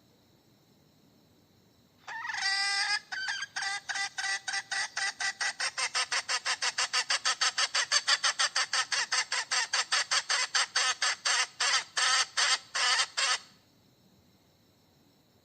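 Hen cackling: one drawn-out call, then a long even run of short sharp clucks at about four a second, stopping suddenly.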